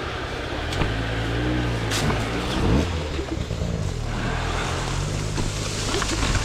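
Dirt bike engine running at low revs, its pitch rising and falling as the throttle is worked, with scattered clicks and knocks.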